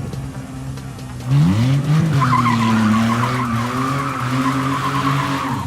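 Car engine revving up about a second and a half in, then held high while the tyres squeal steadily through a drift.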